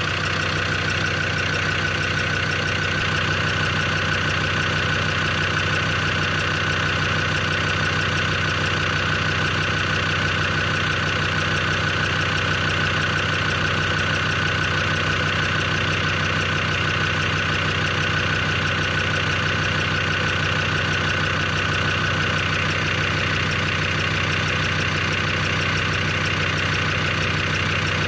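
Land Rover Defender Td5 five-cylinder turbodiesel idling steadily, with a rapid, regular tick and tapping from the top end. The owner cannot trace it despite good oil pressure and lifters that hold pressure, and wonders whether it comes from the injectors.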